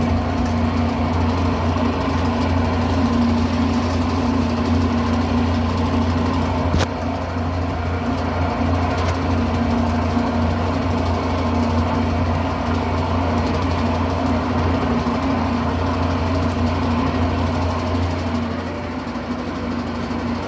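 Electrolux Turbo Limpeza 8 kg (LM08) top-loading washing machine on its spin cycle: a steady motor and drum hum with vibration, the drum spinning off balance, which the repairer puts down to broken suspension springs. A single click comes about seven seconds in, and the machine runs a little quieter after it.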